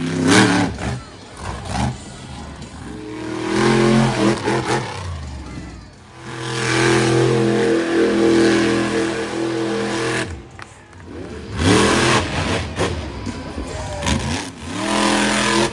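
Monster truck engine revving hard in repeated bursts. It rises and drops several times, holds at high revs for about four seconds in the middle, then climbs again near the end.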